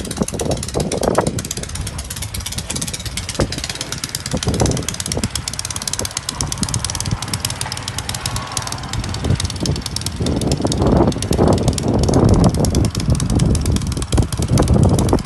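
Snow blower's small gasoline engine running steadily, getting louder about ten seconds in.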